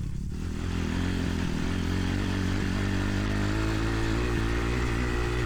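Dirt bike engine running at fairly steady revs while being ridden, with the pitch rising slightly about three to four seconds in.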